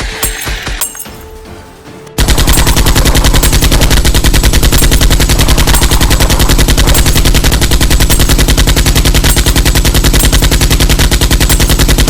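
Automatic gunfire sound effect: a long unbroken rapid-fire burst that starts suddenly about two seconds in and runs about ten seconds, after a short stretch of music with a beat.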